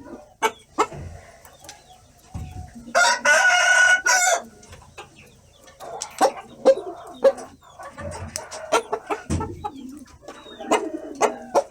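Rooster crowing once about three seconds in, followed by short clucking calls and scattered clicks.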